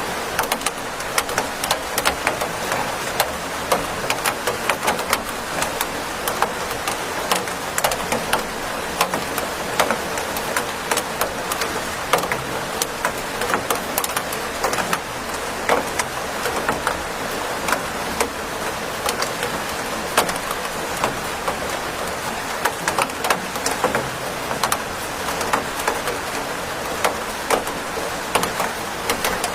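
Steady rain falling: a constant hiss dotted with many separate, sharp drop taps.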